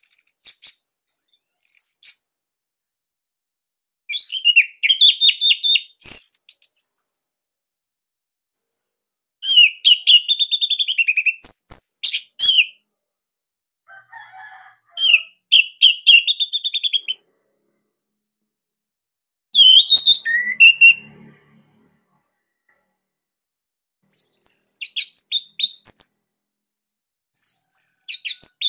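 Orange-headed thrush singing in separate phrases of fast, varied, high whistled notes, each phrase lasting two to three seconds with pauses of about two seconds between them.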